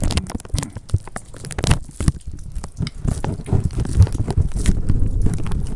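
Gusting wind buffeting the microphone: an uneven low rumble that swells and drops, with scattered crackles and pops.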